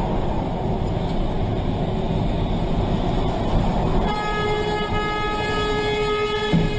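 A train runs with a heavy steady rumble. About four seconds in, its horn starts sounding one long, steady note.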